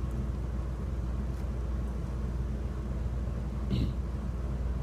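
Steady low machine-like hum with a faint hiss, unchanging throughout, and a brief voice sound near the end.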